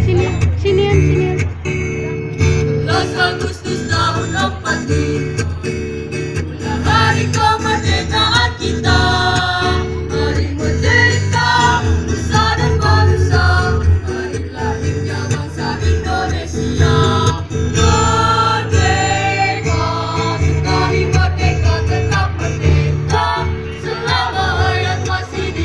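Choir singing in unison over a steadily strummed acoustic guitar.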